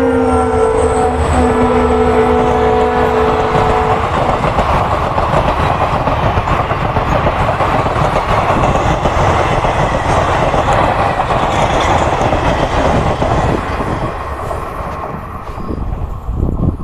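A train horn blows one long chord, dropping slightly in pitch at the start and cutting off about four seconds in. Then comes the steady noise of a fast train passing, its wheels running over the rails, dying away near the end.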